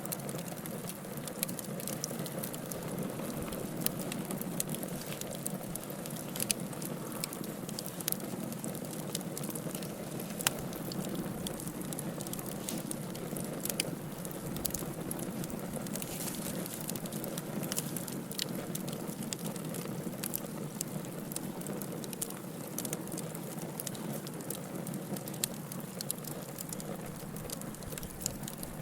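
Wood fire in a fireplace crackling steadily, with irregular sharp pops scattered throughout and a few louder ones standing out.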